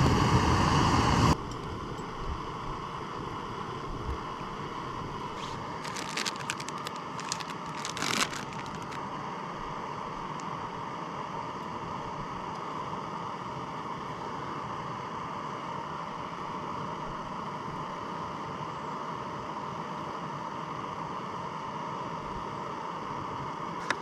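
Steady high hum of a swarm of mosquitoes buzzing around the tent, with crinkling rustles of fabric about five to nine seconds in.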